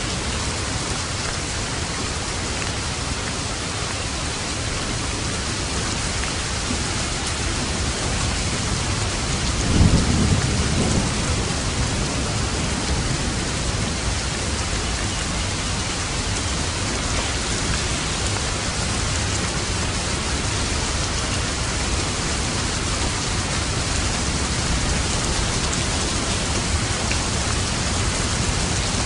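Steady heavy rain drumming on a roof, with one thunderclap about a third of the way in that rumbles low and fades over a couple of seconds.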